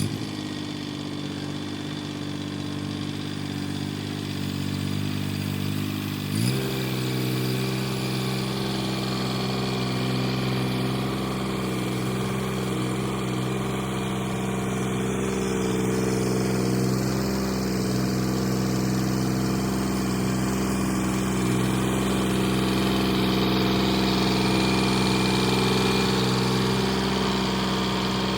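Mahindra tractor's diesel engine running steadily at low speed, then throttled up quickly about six seconds in and held at a higher, steady speed.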